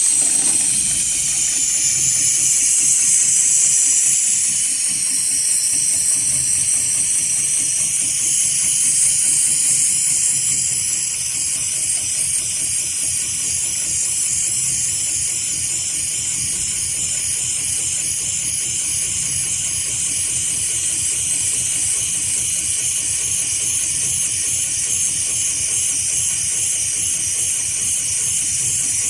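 Heavy-duty automatic rope sewing machine running, giving off a loud, steady hiss with a faint fast mechanical chatter underneath.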